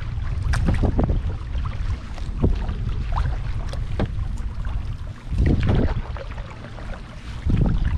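Kayak paddle strokes splashing and dripping in lake water, with small knocks, over a steady low wind rumble on the microphone that surges louder twice in the second half.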